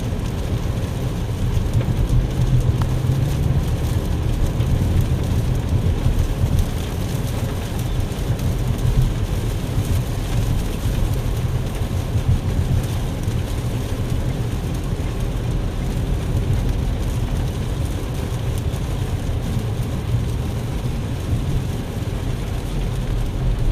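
Steady low rumble of a car heard from inside the cabin, with rain falling on the car.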